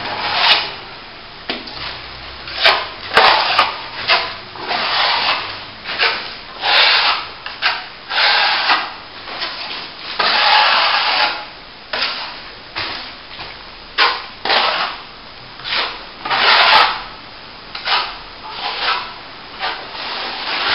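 Steel plastering trowel scraping over wet top-coat plaster on a plasterboard joint. It gives a rasping scrape with each stroke, about one or two strokes a second, some short and some drawn out.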